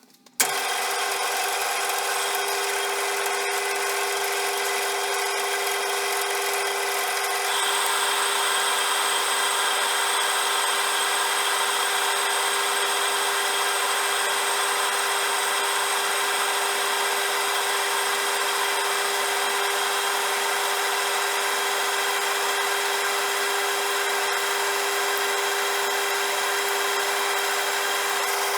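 CJM360 bench lathe switched on and running steadily, its motor and gears giving a whine made of several fixed tones. About seven seconds in a harsher hissing scrape joins it, as the tool bites into the workpiece.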